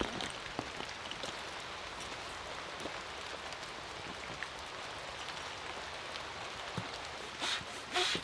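Steady rain with scattered drops pattering. Near the end come two short, louder scuffing sounds.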